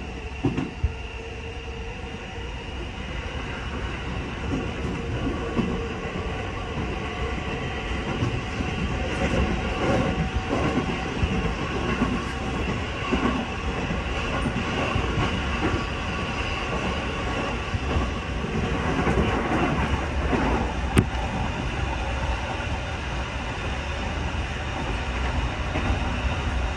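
Musashino Line electric train heard from inside the carriage, running along with a steady noise of wheels on rails that grows louder over the first several seconds. A single sharp click sounds about twenty seconds in.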